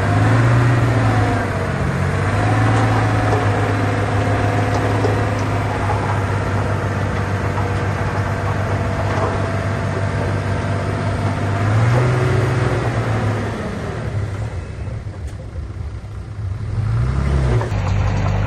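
Heavy diesel engine of earthmoving machinery running steadily, its pitch swelling briefly a few times. It quietens for a couple of seconds near the end, then picks up again.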